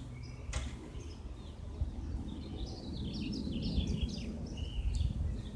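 Low, steady rumble of a distant helicopter, growing a little louder toward the end, with songbirds chirping over it and one sharp click about half a second in.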